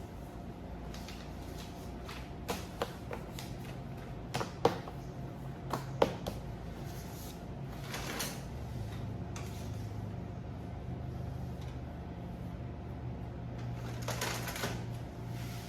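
Indoor work ambience: a steady low hum with scattered light clicks and knocks, several between about two and six seconds in, and a short rustle near the end.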